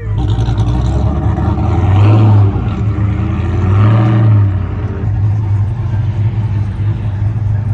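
Truck engine revving hard under load, swelling twice, about two and four seconds in.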